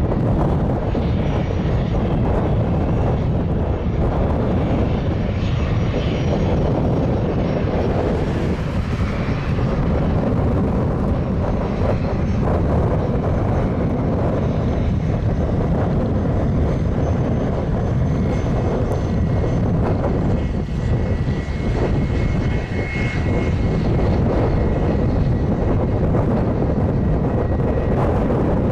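Steady engine and airflow noise of a McDonnell Douglas DC-9-33(F) in flight, from its two Pratt & Whitney JT8D-9 turbofans, with a faint high whine over the rush.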